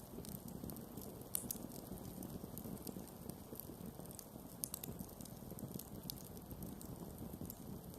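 Wood campfire burning: a steady low rushing sound with irregular sharp pops and snaps of crackling wood. The loudest pops come about a second and a half in and near five seconds.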